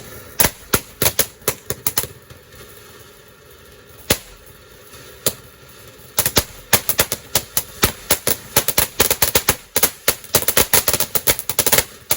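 Fireworks going off in rapid volleys of sharp bangs. A quick run of bangs comes first, then a lull with two single bangs, then a long, dense crackle of bangs from about halfway through.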